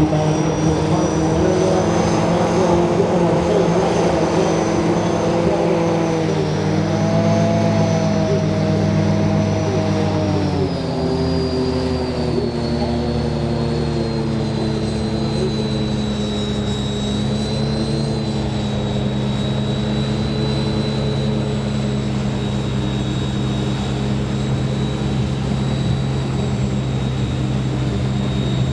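Engine droning with a steady pitch, which drops noticeably about ten seconds in and then holds level.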